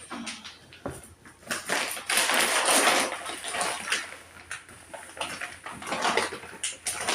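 Household items being handled and moved about, with irregular rustling and a few light knocks, loudest about two seconds in.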